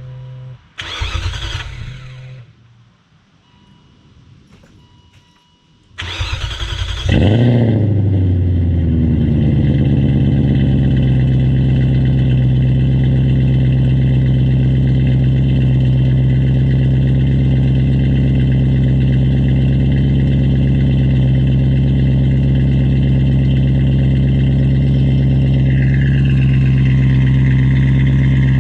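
BMW E39 540i's V8, with a catless custom exhaust through a Thrush muffler, cold-started after sitting all day: it is cranked about six seconds in, catches with a flare that settles over a few seconds into a steady high idle, which shifts slightly near the end. A short loud noise comes about a second in.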